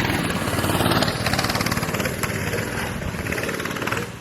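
Small mini bike engines running hard on the track. The sound eases off a little, then drops away abruptly just before the end.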